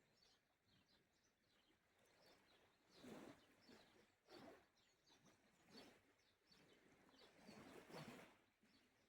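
Faint small sea waves washing in, several soft swells a second or two apart, with faint bird chirps.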